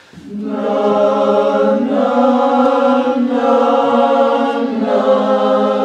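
Two vocal parts of a barbershop-style chorus singing a warm-up exercise a cappella, holding sustained notes in harmony and moving to a new chord every second or so.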